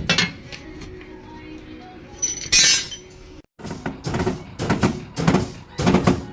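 Metal clinks and knocks from tools and the rear coil spring being handled, with a sharp knock at the start and a short hiss about two and a half seconds in. After a brief cut, music with a steady beat takes over.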